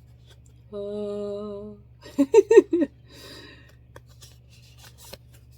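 A person's voice humming one steady note for about a second, then a few short rising-and-falling vocal sounds, followed by a brief soft rustle.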